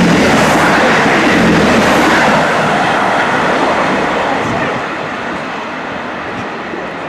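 A train passing through the station: loud rushing rail noise that starts fading after about two and a half seconds as it moves away.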